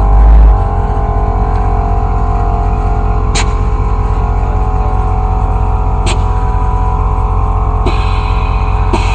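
Loud, bass-heavy music playing from a custom pickup truck's sound system mounted in the back, the bass swelling louder in the first half second. A couple of sharp clicks sound midway.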